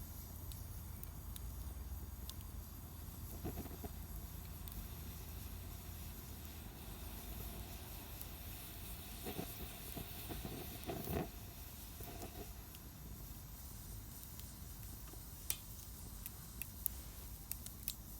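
Wood fire burning in a Solo Stove Campfire stainless double-wall stove: a steady soft hiss with sparse sharp crackles, several of them near the end. A brief louder rustling flare-up comes about ten to eleven seconds in.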